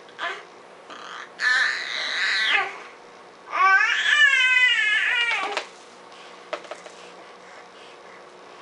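A baby vocalizing in two drawn-out, high-pitched cries or squeals, the first about a second long and the second about two seconds long and wavering in pitch, followed by a few faint clicks.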